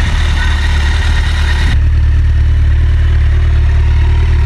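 Motorcycle engine idling steadily with a strong low hum. A little under two seconds in, the higher hiss and rattle cut off abruptly, leaving the low engine note.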